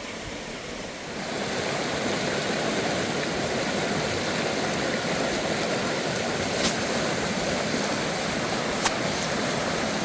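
Steady rushing water, like a stream or small waterfall, getting louder about a second in, with two faint clicks in the second half.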